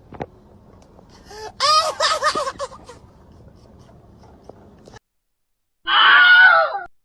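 Two short, high-pitched wavering screams from meme sound clips. The first comes about a second and a half in, and the second, higher one comes after a sudden cut and a moment of silence near the end.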